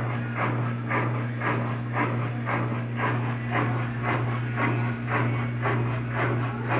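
Electrolux LTD13 13 kg washing machine winding down from its final spin: a steady motor hum with a rhythmic whoosh about twice a second as the drum turns.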